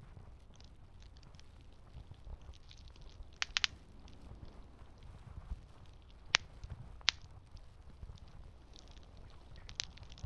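Campfire burning with a low steady rumble and scattered crackles, broken by sharp pops: a quick cluster of three about three and a half seconds in, two single loud pops a few seconds later, and another near the end.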